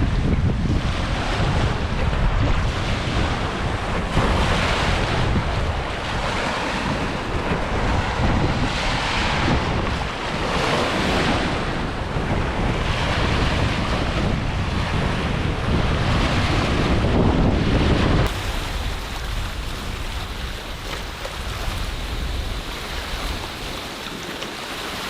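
Wind-driven waves washing in against a rocky shore, with strong wind buffeting the microphone; the waves surge about every two seconds. About three-quarters of the way through, the sound changes abruptly to a quieter, steadier wash of waves.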